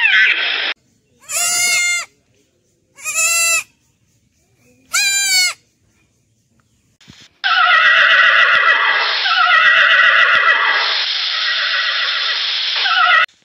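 Young goat kids bleating: three short, wavering bleats about two seconds apart. From about seven seconds in, a longer, louder run of overlapping animal calls follows.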